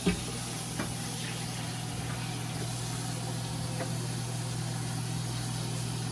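Steady low mechanical hum, with a sharp knock at the start and a lighter one about a second in.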